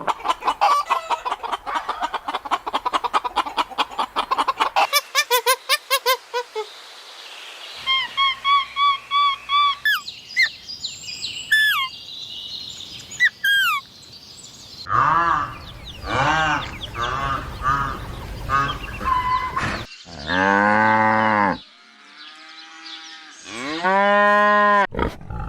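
A string of different farm animal calls edited one after another, among them cattle mooing and poultry calls. It opens with rapid pulsing calls, then short repeated calls, and from about the middle a series of arching calls and long moos.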